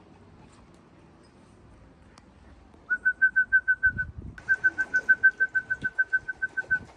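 A person whistling a rapid run of short, even notes at one pitch, about eight a second, in two bursts with a brief break: a pigeon fancier's whistle calling racing pigeons home into the loft.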